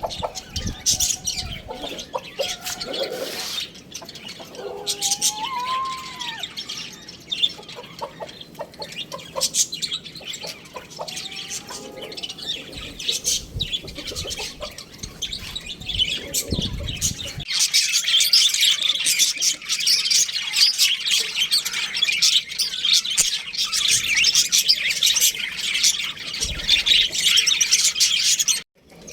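Pet birds chirping continuously, with a few lower, gliding calls in the first half. About 17 seconds in it switches abruptly to denser, higher chirping that continues until it cuts off just before the end.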